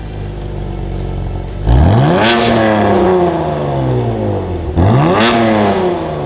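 2016 Chevrolet Camaro RS's 3.6-litre V6 on its factory exhaust with valved rear mufflers. It idles, then is revved sharply twice, about three seconds apart, each rev falling back to idle.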